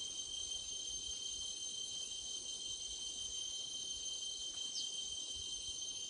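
A steady chorus of insects trilling at a high pitch without a break, with one short falling chirp about five seconds in.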